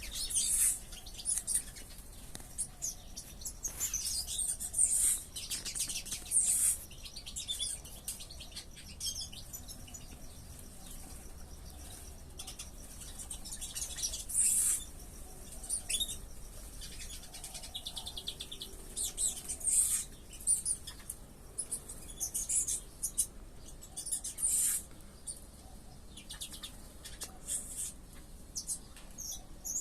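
A flock of small aviary birds chirping, many short high chirps overlapping throughout.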